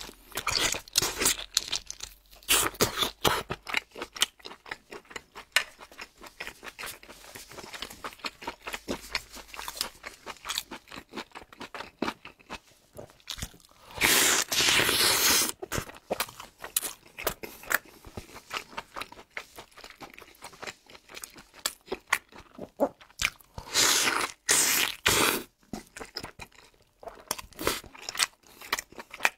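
Close-up eating sounds: a man biting and chewing a sauce-glazed sausage and a crisp pan-fried flatbread, with steady chewing clicks. Two loud bursts of crunching come from bites into the flatbread, about halfway through and again some ten seconds later.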